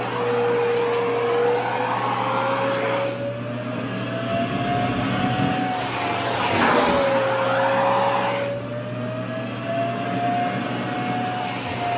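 Vacuum cleaner running steadily, its motor whine slowly falling and rising in pitch over a few seconds at a time as it sucks on skirt fabric.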